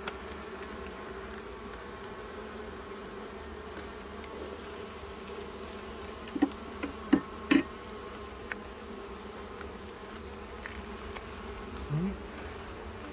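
Honeybees humming steadily around an opened hive, with three or four sharp knocks about six to seven and a half seconds in.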